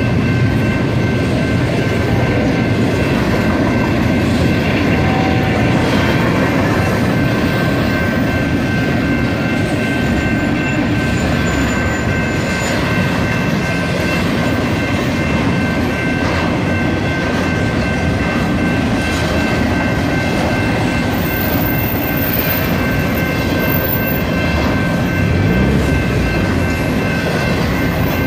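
Long double-stack intermodal freight train rolling slowly past: steady rumble and rattle of the wheels and cars on the rails, with some clacking of wheels over rail joints and steady high tones above.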